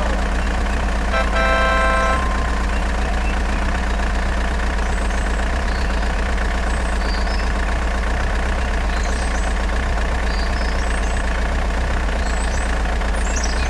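Steady engine drone of a truck idling. About a second in there is a short horn-like tone, and faint high chirps come and go later.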